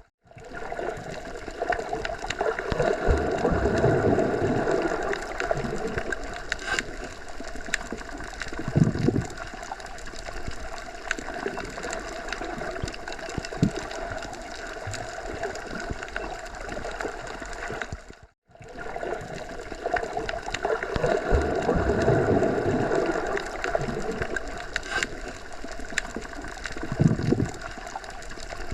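Forest ambience of wind blowing through trees, rising and falling in slow gusts. The recording is a loop that cuts out briefly and restarts about 18 seconds in.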